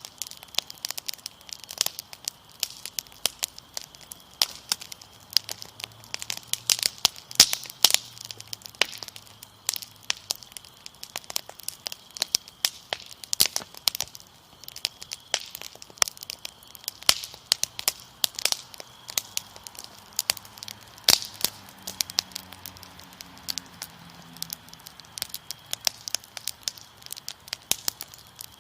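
Fire crackling with dense, irregular sharp pops throughout, over a steady high trill of crickets.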